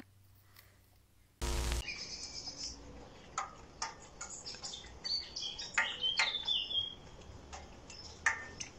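A short loud burst about a second and a half in, then small birds chirping in short, scattered calls.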